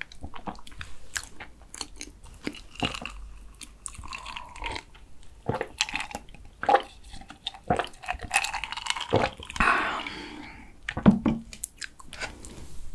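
Close-miked chewing of a mouthful of cookies-and-cream cake with small wet mouth clicks, then swallows of an iced drink from a glass mason-jar mug, and the glass knocking down onto the table about eleven seconds in.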